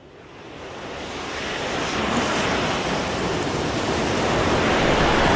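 A steady rushing noise, like wind or surf, fading in from silence over the first two seconds and then holding even.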